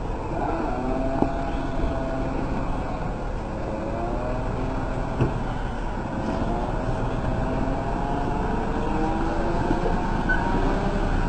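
Heavy truck engine running under load, its pitch rising and falling as the revs change, with a couple of short knocks.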